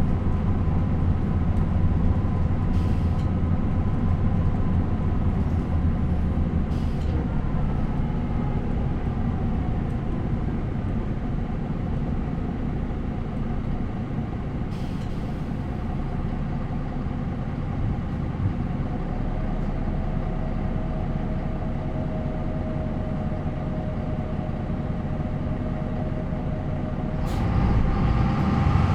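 A MAN NL 263 city bus's D28 diesel engine with ZF Ecomat automatic gearbox running. It eases off after the first several seconds to a steady lower note with a faint whine, then gets louder about 27 seconds in as the engine picks up again.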